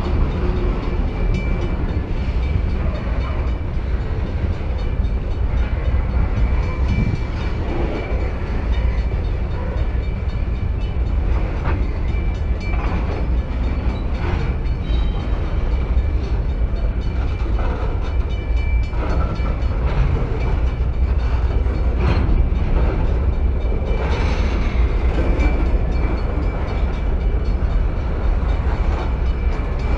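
Freight train rolling past, a steady heavy rumble with scattered wheel clicks over the rails.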